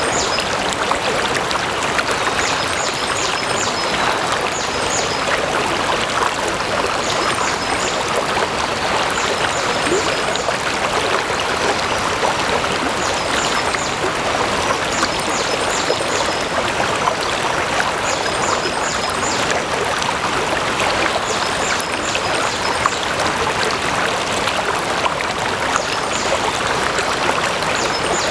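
Flowing water, a steady unbroken rush with no pauses.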